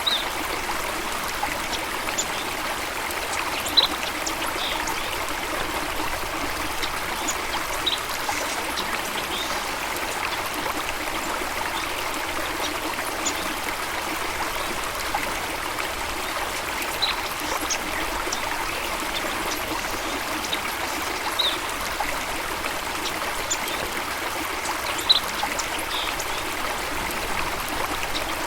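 A water stream trickling and flowing steadily, with a few brief, isolated high-pitched notes scattered through it.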